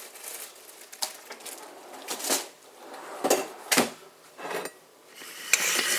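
Kitchen utensils and dishes being handled on a counter: a series of separate knocks and clatters, then a longer scraping, rustling sound near the end.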